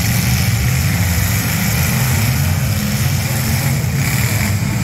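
Several demolition-derby cars' V8 engines running together in a loud, steady low rumble, rising and falling slightly as the cars move about the pit.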